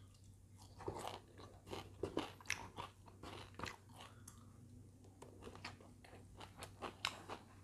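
A person chewing a mouthful of rice and side dishes, with faint irregular crunches and wet mouth clicks.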